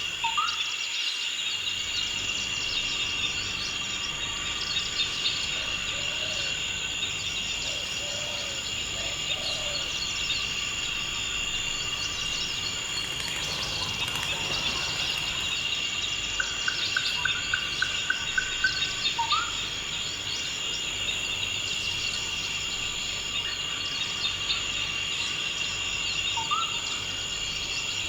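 Forest insects chirring in a steady, high, unbroken chorus, with occasional short bird calls over it: a rising chirp near the start, a quick run of about eight notes about two-thirds of the way through, and more single chirps later.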